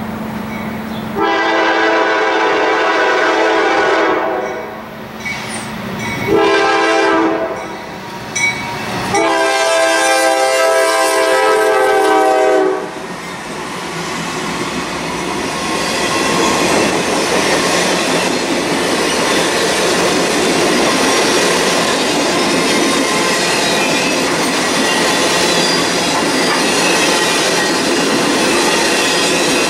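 Diesel locomotive air horn sounding four blasts, long, long, a brief short, long: the grade-crossing signal. Then the train's passenger cars roll steadily past, wheels clattering over the rail joints.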